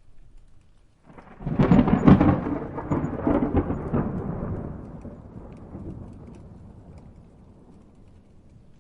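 A thunderclap with rain. About a second and a half in it breaks with sharp crackling cracks, then a rumble dies away slowly over the next several seconds.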